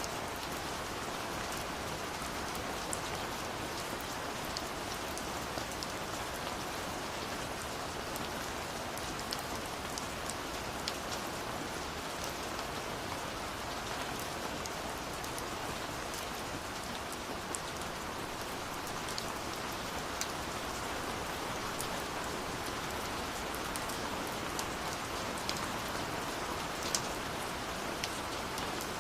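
Steady rush of a waterfall with the sharp pops and crackles of a burning wood fire scattered through it, one louder pop near the end.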